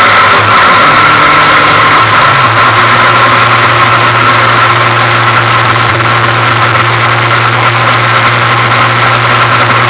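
Ford Fiesta 1.6 engine idling loudly and steadily through a short bonnet-exit exhaust, its revs dropping slightly about two seconds in and then holding level.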